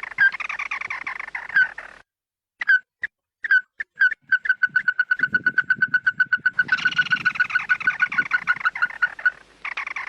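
Bird flock calls played as a lure: dense chattering calls break off about two seconds in, then come sharp single notes that run into a fast, even series of about five a second, with the chatter rising again over it.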